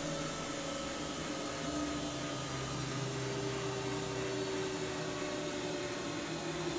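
Washing machine running: a steady motor hum and whir whose pitch drifts slowly.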